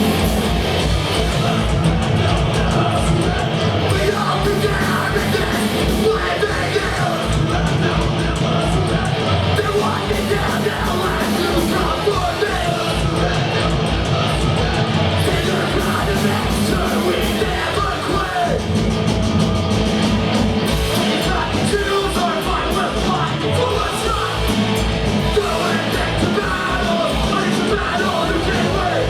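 A punk rock band playing live: fast, driving drums, distorted electric guitars and bass under shouted vocals, loud and continuous.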